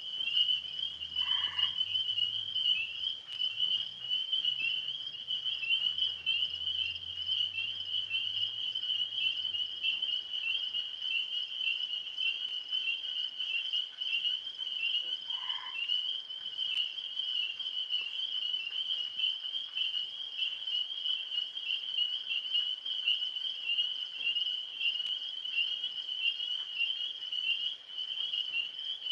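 Chorus of tree frogs calling without a break, a dense high trill. A couple of short, lower calls stand out, about a second and a half in and again about fifteen seconds in.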